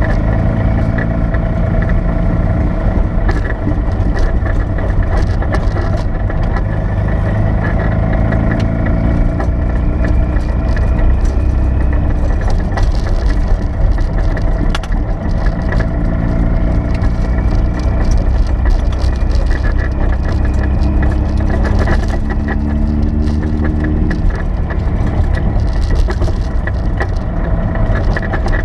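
1979 Porsche 930 Turbo's air-cooled turbocharged flat-six idling steadily, heard from inside the cabin, with scattered small clicks and rattles. The engine note shifts a little about two-thirds of the way through.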